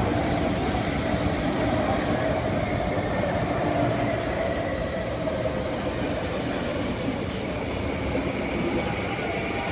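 Metro Cammell electric multiple unit pulling slowly into the station: a steady rumble of wheels on rail with a humming whine that drifts slightly lower in pitch.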